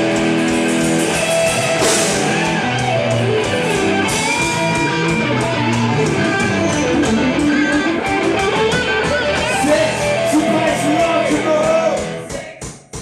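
Live rock band playing: electric guitar with bending lead lines over a steady drum beat, the music dropping off sharply about a second before the end.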